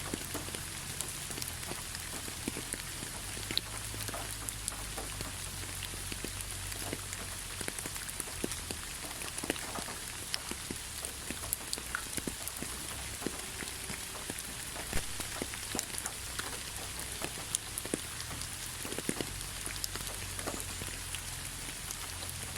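Steady rainfall, a continuous hiss of rain with many individual drops heard as short, sharp ticks scattered throughout.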